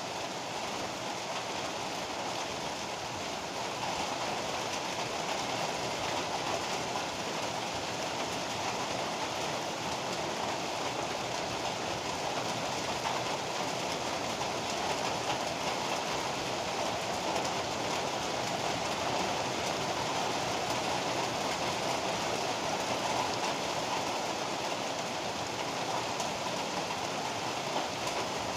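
Heavy rain pouring down in a steady, even hiss, getting a little louder over the first few seconds.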